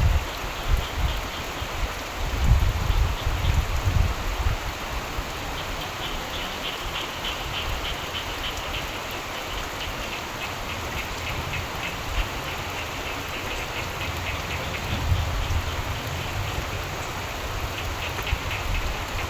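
Steady rain falling, with frogs calling in rapid pulsed trains, strongest from about five to twelve seconds in and again near the end. Low rumbles of distant thunder swell in the first few seconds and again about fifteen seconds in.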